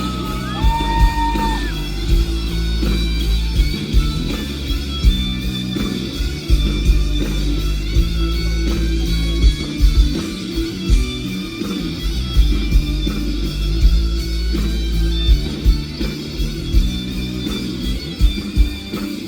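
Live rock band playing an instrumental passage with no singing, led by guitar over bass and drums.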